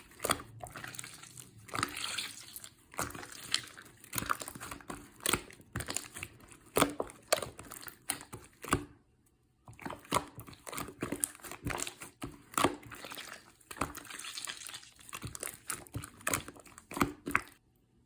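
Irregular crinkling, crackling and clicking handling noises, with a brief pause about nine seconds in, cutting off suddenly near the end.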